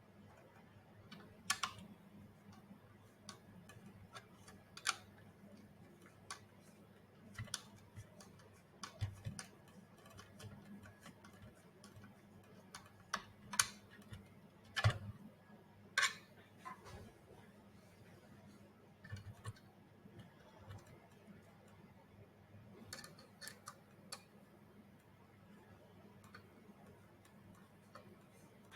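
Irregular light clicks and taps of robot head parts being handled and fitted together, with a few louder knocks in the middle, over a faint steady low hum.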